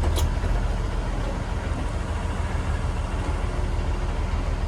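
Engine of a Blue Bird Vision school bus running with a steady low rumble.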